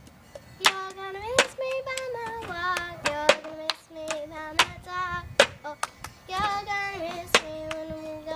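A high voice singing a simple tune in held, wavering notes, with sharp hand claps at irregular intervals, about half a dozen in all.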